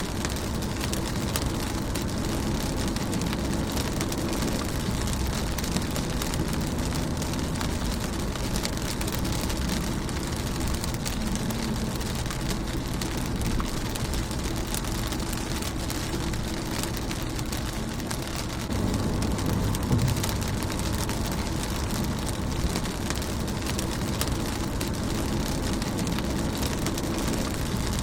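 Steady rain on a car's windshield: a dense, even patter of drops over a low rumble. The low rumble swells briefly about two-thirds of the way in.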